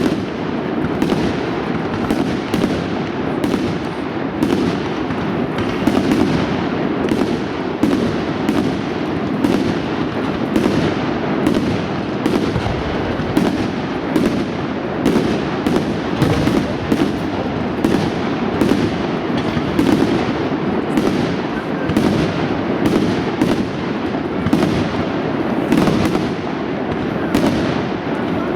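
Professional fireworks display: aerial shells bursting in a continuous barrage, with bangs following one another every half second or so over a steady rumble.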